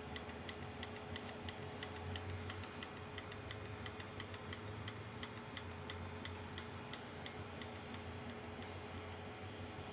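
Bambu Lab A1 Mini 3D printer running a print, with a regular ticking about three times a second over a low steady motor hum; the ticking grows fainter near the end.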